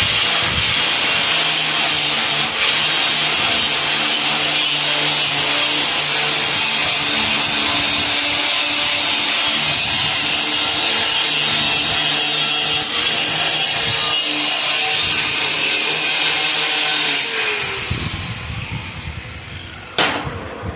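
Power grinder working steel frame metal with a steady loud hiss over a low hum. About 17 seconds in it is let off and spins down with a falling whine, and a sharp click follows near the end.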